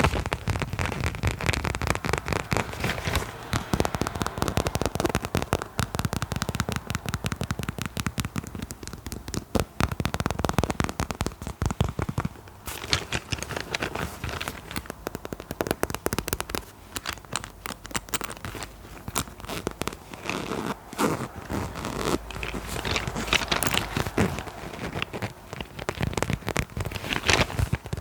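Fast, continuous tapping and scratching on an object, a dense crackle of small clicks and scrapes with no pause.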